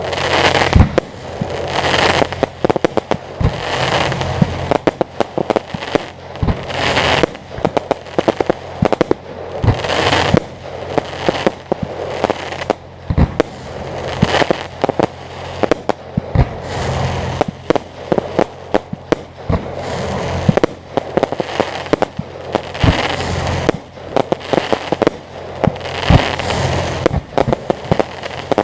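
Fireworks display going off continuously: many sharp bangs and crackling bursts, coming every second or two and overlapping, over a steady low hum.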